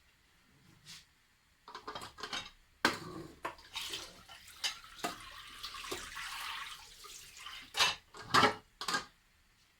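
Pots, dishes and utensils clattering and knocking in a kitchen, with a couple of seconds of running or pouring water in the middle.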